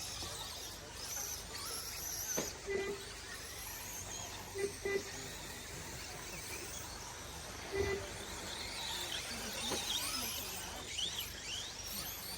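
1/10-scale 2wd short course RC trucks racing around the track, their motors whining up and down in pitch as the drivers work the throttle. There is a sharp knock about two seconds in and a few short low blips.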